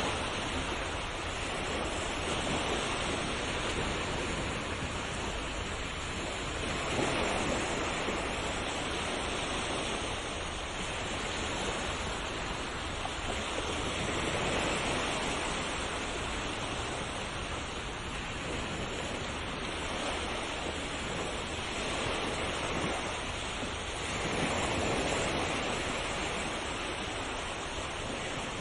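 Ocean waves breaking on a shore: a continuous rush of surf that swells and eases as each wave comes in, every few seconds.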